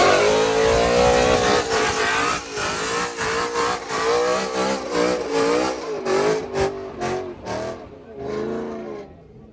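Car engine revved hard, its pitch climbing sharply at the start and then wavering up and down for several seconds, over a broad hiss of tyre noise; it fades away near the end.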